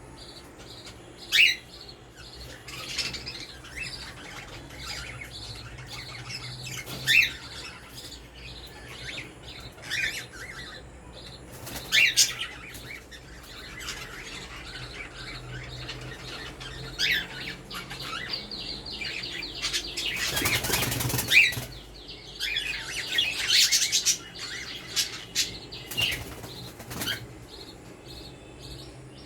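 Pet budgerigars chirping and chattering in short, sharp calls scattered throughout, with a longer, louder noisy flurry about twenty seconds in.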